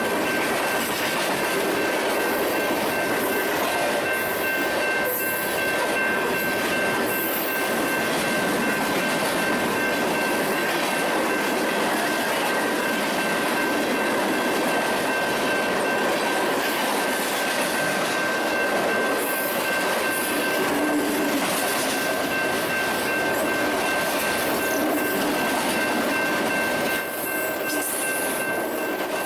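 Union Pacific freight train rolling past, its steel wheels giving a steady high-pitched squeal over the rumble of the cars on the rails.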